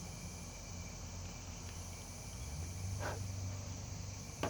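Insects chirring, in high swells that come and go every second or two, over a steady low hum, with two short clicks, one about three seconds in and one at the end.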